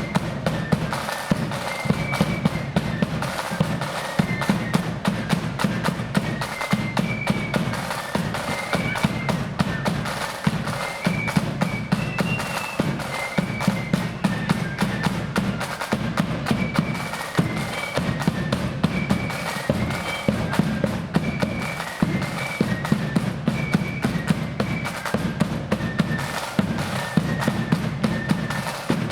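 Marching flute band playing: a high flute melody over rapid snare drumming and heavy bass drum beats.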